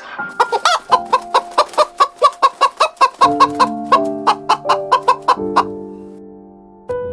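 Chicken clucking in a quick run of short calls, about four a second, over background music; the clucking stops near the end, leaving held music notes.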